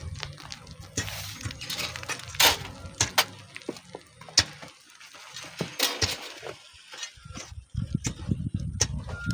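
Irregular knocks and clinks, like stones and hand tools striking in a sand pit, with low gusty rumbling near the start and again near the end.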